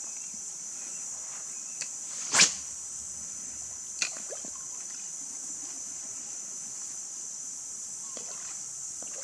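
Steady high-pitched drone of insects in the bush, with one short, sharp sound about two and a half seconds in, the loudest moment, and a smaller click about four seconds in.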